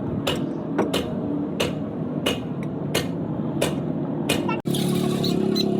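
Hammer striking metal in a steady rhythm, about one blow every two-thirds of a second, over steady workshop background noise; the blows stop about three-quarters of the way through.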